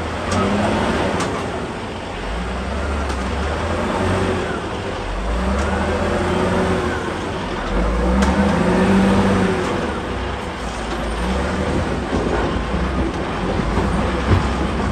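Excavator's diesel engine and hydraulics working under load, the engine note rising and falling several times as the machine works.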